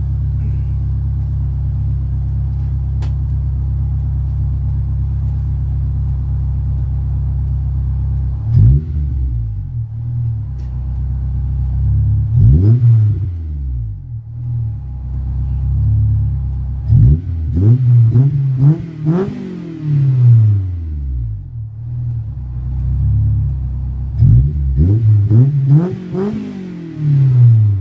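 Honda S2000's four-cylinder engine, warmed up and fitted with a Spoon aftermarket exhaust, idling steadily, then revved in short blips. There are two single revs, then two quick runs of several revs each, the pitch rising and falling each time.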